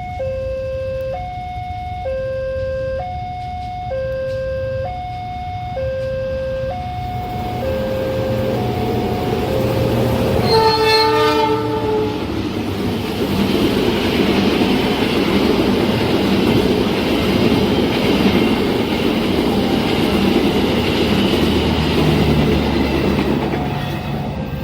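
Level-crossing warning alarm sounding two alternating tones that fade over the first ten seconds. Then a train horn blasts for about a second and a half, followed by the loud, steady rumble and clatter of a train passing.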